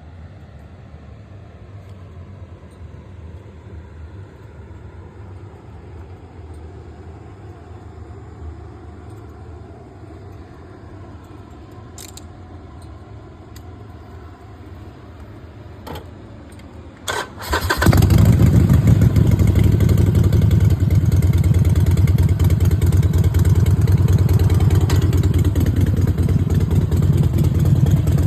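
Harley-Davidson Sportster Forty-Eight's air-cooled V-twin being started: after a low steady rumble and a few sharp clicks, the engine catches about two-thirds of the way in and settles into a loud idle with an uneven pulsing beat.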